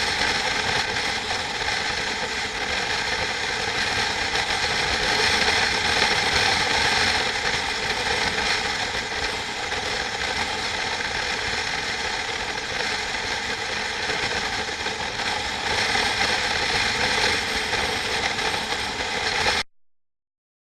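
Steady mechanical clattering noise that runs evenly, then cuts off abruptly near the end.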